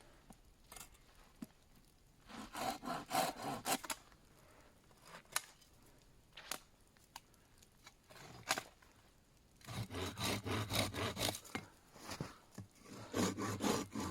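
Hand saw cutting through wood in bursts of back-and-forth strokes, about three a second, with pauses between the bursts.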